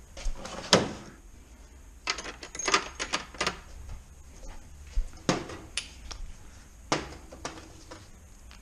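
Metal hand tools clinking and clicking as a socket and short extension are fetched and handled for 13 mm bolts. Scattered sharp knocks, with a quick run of them about two and a half seconds in.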